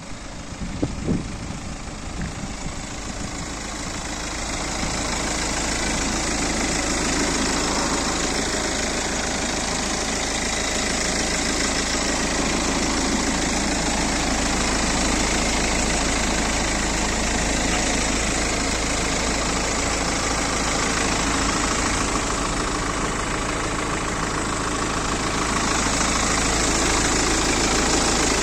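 2016 BMW X3 engine idling steadily, with a few sharp knocks about a second in.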